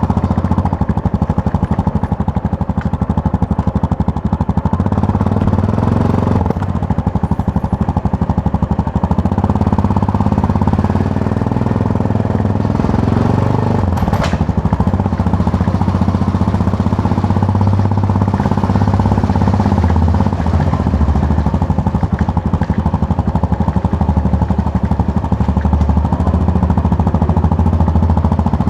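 Yamaha MT-03 motorcycle engine running on the move, its pitch shifting up and down with the throttle. There is a sharp click about fourteen seconds in.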